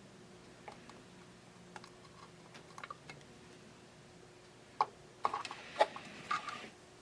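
Light clicks and taps of small tools and parts being handled on a workbench during soldering work, with a run of sharper taps about five seconds in, over a faint steady hum.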